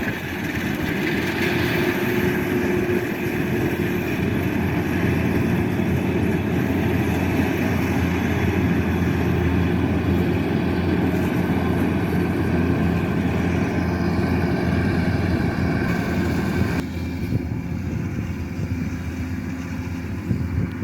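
Diesel engine of a Kubota DC-105X combine harvester running steadily. About three-quarters of the way through, the sound drops a little and turns duller.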